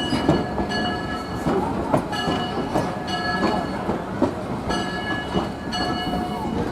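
Railroad car rolling along the track behind a steam locomotive: a steady rumble with irregular clickety-clack of wheels over rail joints and short, repeated high-pitched ringing squeals.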